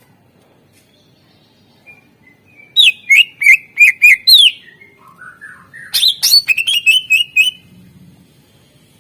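Greater green leafbird (cucak ijo) singing. About three seconds in comes a loud run of rapid, sharp, high notes, then a softer, lower warble, then a second fast run of about ten notes near the middle.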